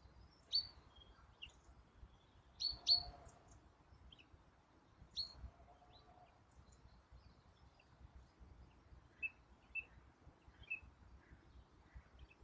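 Birds chirping in short, sharp calls every second or two over a faint outdoor background, loudest as a quick double chirp about three seconds in, with softer, lower chirps near the end.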